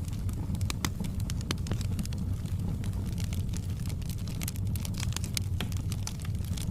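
Wood fire burning in a fireplace, crackling with many sharp irregular pops and snaps over a steady low rumble.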